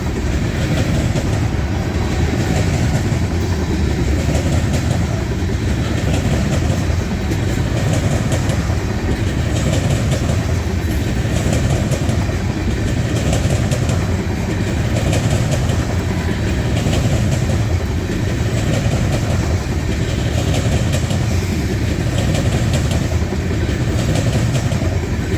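Loaded freight train of grain hopper cars rolling past on the rails, a steady rumble with a regular swell about every two seconds as car after car goes by.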